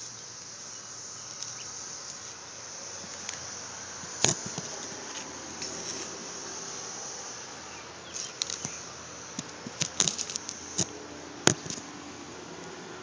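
A cicada fluttering and buzzing in short bursts with sharp clicks: one about four seconds in, then a cluster of them later on, the last and loudest near the end. A steady high hiss runs under them.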